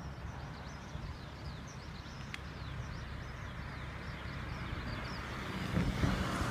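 Low, steady rumble of a diesel railcar idling, with birds chirping in many short falling notes over it. Near the end the noise swells and a few low knocks come through.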